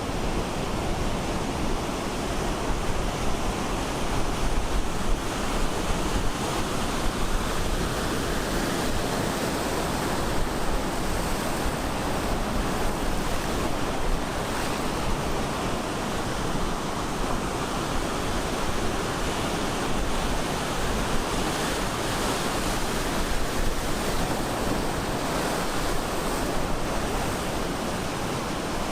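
Ocean surf breaking and washing onto the shore in a steady, continuous rush, with some wind noise on the microphone.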